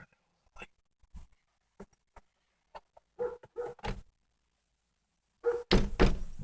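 A dog with a sock pulled over her head making short, scattered vocal sounds and scuffling, with a louder cluster of bumps and scrabbling about five and a half seconds in.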